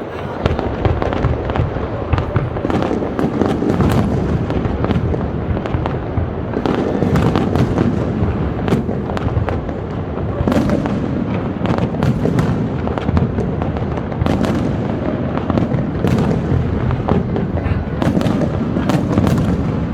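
Fireworks display: a dense, continuous run of bangs and crackles over a steady low rumble.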